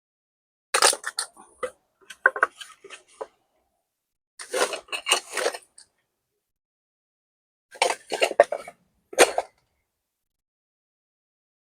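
Handling noises: clinks and knocks of hard objects being moved and set down, in four short bursts with silence between.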